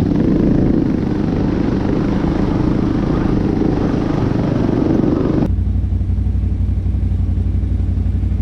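ATV engine running steadily under way on a trail, with rattle and road noise from the machine. About five and a half seconds in, the sound changes abruptly to a steadier, lower engine note with less hiss.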